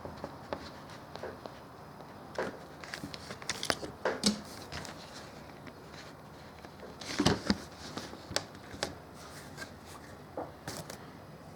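Plastic toy race track pieces being handled and fitted together: scattered light clicks and knocks, with a louder cluster of knocks about seven seconds in.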